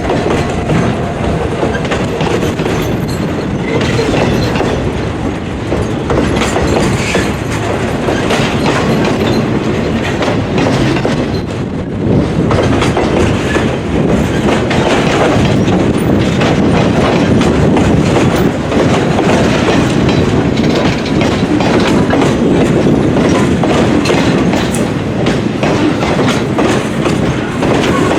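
Freight train rolling past at close range, its wheels clacking steadily over the rail joints.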